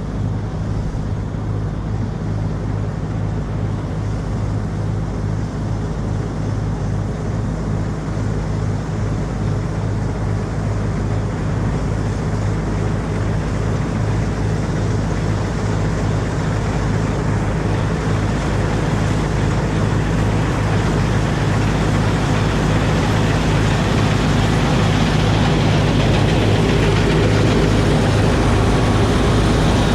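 Oliver 7300 combine running while cutting wheat: a steady low engine drone under a broad machinery noise, growing gradually a little louder.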